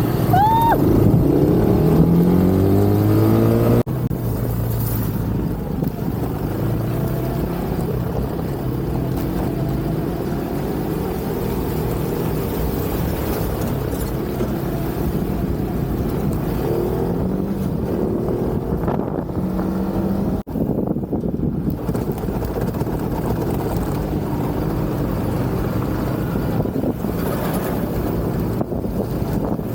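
A 250cc motorcycle engine running on the move, with wind rushing over the microphone. The revs climb over the first few seconds, then the engine holds at a steady cruise.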